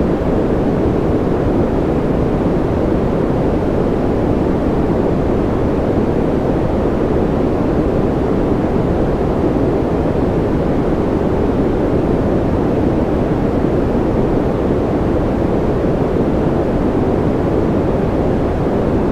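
Continuous white noise for sleep: an even, unbroken rush that never changes, weighted toward the low end so it sounds deep rather than hissy.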